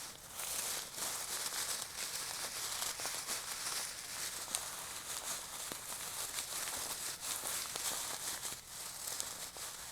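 Crinkling, rustling plastic with many small clicks and rattles: a bag of river rocks being handled.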